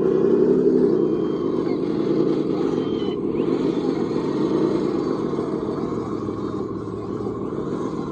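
A radio-controlled scale construction machine running, with a steady motor drone whose pitch wavers in the first second and then settles into a dense, rapid hum that fades slightly toward the end.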